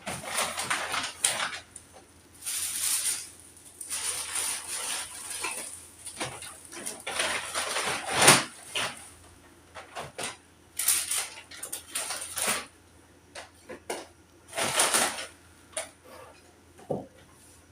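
Household objects being handled and moved about while sorting: repeated bursts of rustling and clattering with sharp knocks in between, the loudest knock about eight seconds in.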